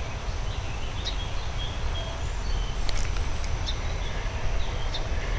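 Outdoor creek ambience: a small bird gives short, high chirps every half second or so over a steady low rumble.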